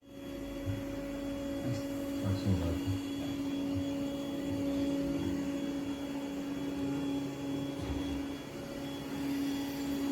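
A steady low electrical hum, with a few faint low knocks in the first few seconds.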